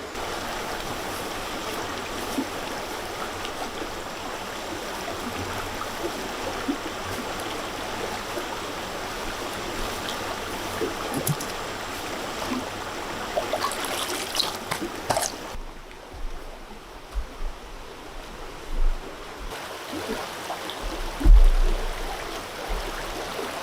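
Running water, a steady stream or trickle, with a few small clicks over it. About two-thirds of the way through it turns quieter and duller, and a few low thumps follow near the end.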